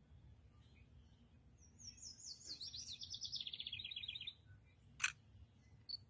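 A songbird sings a fast trill of rapidly repeated notes that steps down in pitch, lasting about two and a half seconds. About a second later comes a single sharp click.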